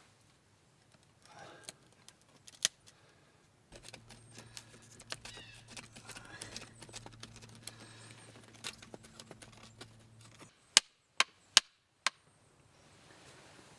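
Wood being worked by hand: a run of crackling and snapping, then four sharp chopping knocks about half a second apart near the end.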